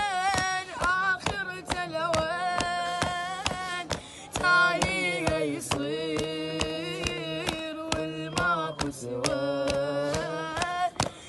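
A man singing a Shia lament (latmiya) for Husayn in long, wavering held notes, over a beat of sharp percussive strikes.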